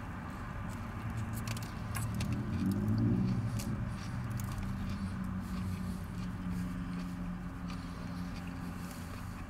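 A man chewing a mouthful of toasted sub roll, with small wet mouth clicks, over a steady low vehicle hum that swells about three seconds in.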